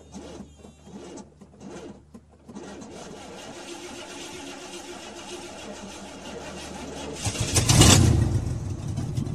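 A car engine starting: it catches with a loud rev about three-quarters of the way in, then settles into a steady low-pitched idle.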